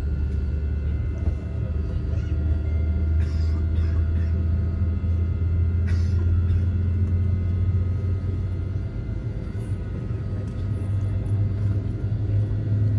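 Airliner cabin noise with the jet engines running: a steady low rumble with several thin, steady whining tones above it, growing a little louder near the end. A couple of faint clicks sound about three and six seconds in.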